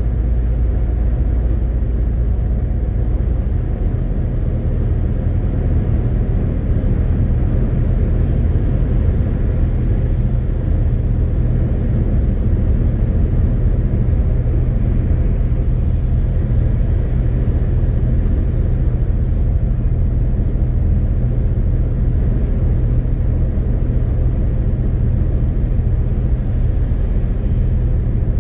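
MAN TGX 18.520 truck's inline-six diesel engine and road noise heard from inside the cab while driving: a steady low drone whose lowest note shifts a few seconds in.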